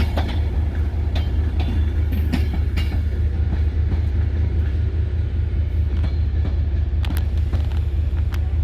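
Train running past on the track: a steady low rumble with sharp clicks of wheels passing over rail joints, most of them in the first half.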